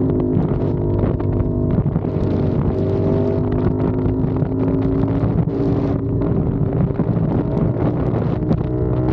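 CFMOTO 450SR's parallel-twin engine pulling at a fairly steady speed while riding, its pitch drifting only a little, with wind buffeting the microphone.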